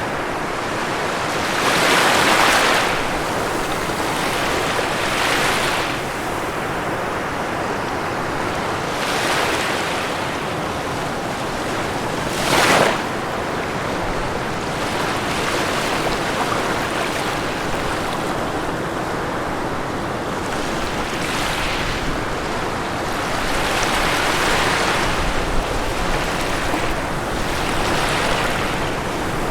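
Ocean waves breaking on a shore: a continuous wash of surf that swells every few seconds as each wave comes in, with one short, sharper crash about twelve seconds in.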